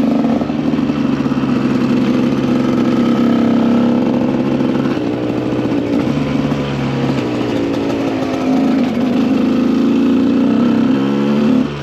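KTM EXC 125 two-stroke dirt bike engine running under way at fairly steady revs, its pitch rising and falling a little. There is a brief dip in level just before the end.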